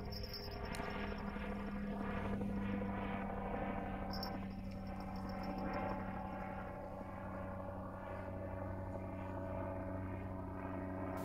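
Steady drone of an engine, a low hum with a stack of even overtones that swells and eases slightly without breaking off.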